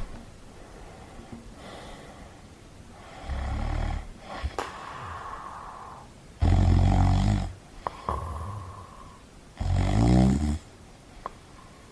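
A person snoring in slow, regular breaths. A softer snore is followed by two loud rattling ones about three seconds apart, with quieter breaths between them and a few faint clicks.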